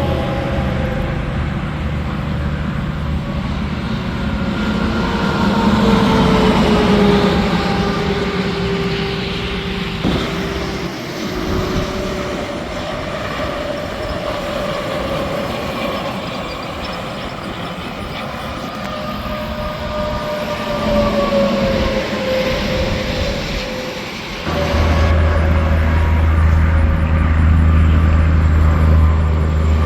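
Interstate traffic: semi trucks and other vehicles passing, their tyre and engine tones falling in pitch as each goes by. About 24 seconds in, a steady low hum comes in abruptly and the sound gets louder.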